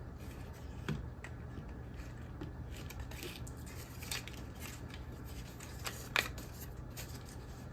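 A few light clicks and taps from handling a dismantled TV switchbox's plastic case and parts, the loudest a little after six seconds in, over a faint low hum.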